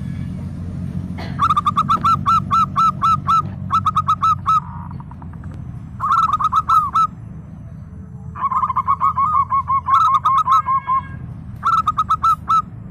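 Zebra dove (perkutut) calling: five bursts of its rapid staccato cooing trill, each a quick run of short hooked notes, with pauses between the bursts.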